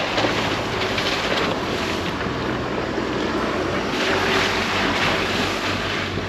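Pickup truck driving off-road: a steady low engine hum under loud rushing noise that swells and falls, strongest about four seconds in.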